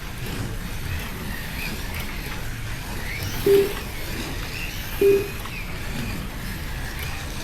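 Slot cars running on the track, a steady rumble of wheels and guide on the track with the faint rising and falling whine of their electric motors. Two short beeps cut through, about three and a half and five seconds in.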